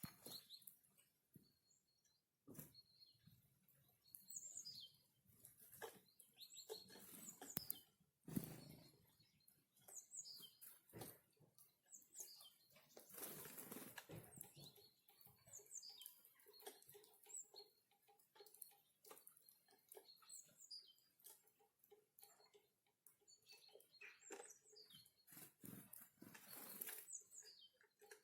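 Small forest birds at a winter feeding spot, faint: scattered short high chirps and call notes, with soft taps and rustles among them.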